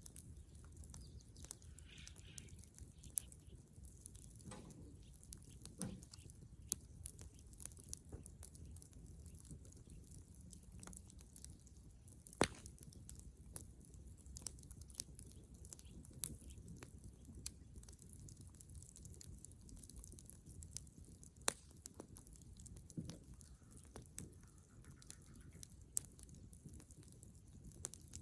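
Bonfire of dead wood crackling: irregular sharp pops and snaps, a few louder than the rest, over a low steady rumble of the burning.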